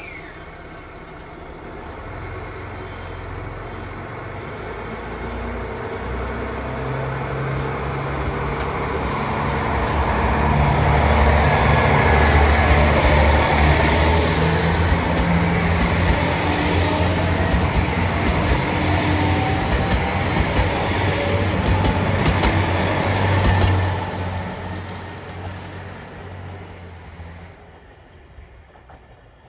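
A diesel train running by on the line. Engine and wheel-on-rail noise build over about ten seconds and stay loud, with a thin high whine on top in the second half. Then the noise drops off sharply and fades away near the end.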